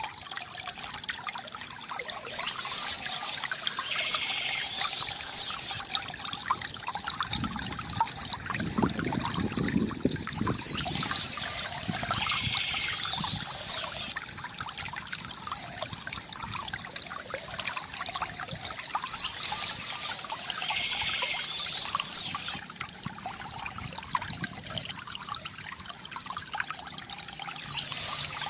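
Stream water flowing and trickling steadily, with a deeper gurgle swelling up about eight seconds in and brighter splashy patches coming back every eight or nine seconds.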